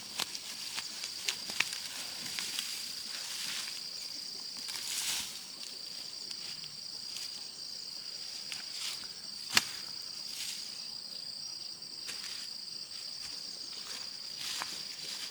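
Steady high-pitched insect chirring, with scattered light clicks and snaps and one sharper snap about nine and a half seconds in.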